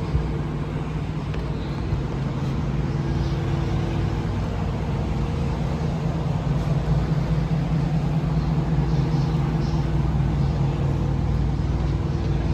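Motor vehicle running steadily: a constant low engine and road drone with a few faint steady tones above it.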